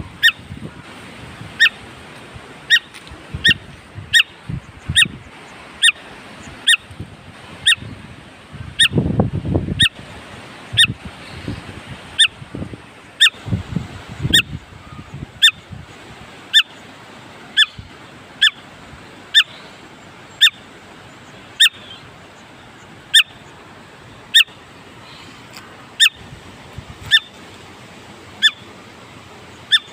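A bird calling over and over: a short, sharp note repeated about once or twice a second at a steady pace. Low rumbles of wind or handling noise come in briefly a third of the way through.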